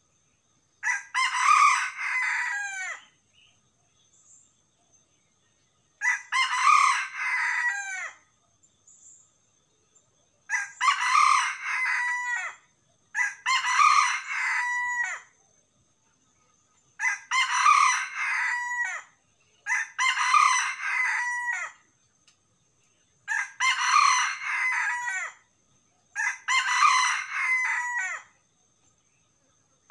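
A jungle-fowl-type decoy rooster crowing over and over, calling to draw wild red jungle fowl: eight loud crows of about two seconds each, a few seconds apart.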